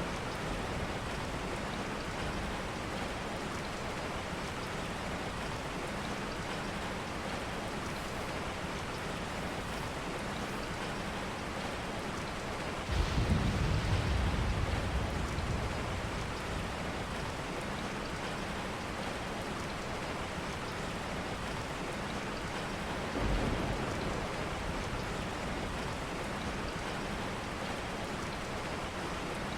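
Steady heavy rain, with a low rumble of thunder about halfway through that swells and fades over a few seconds, and a shorter, softer rumble later.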